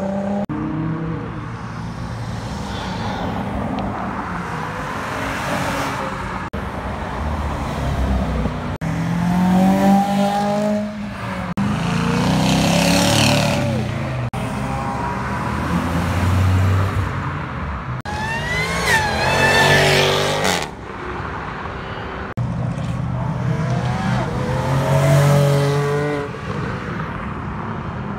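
Cars pulling away one after another, their engines revving up and accelerating past several times. On each pull the engine note climbs in pitch, and the strongest pull comes about two-thirds of the way through.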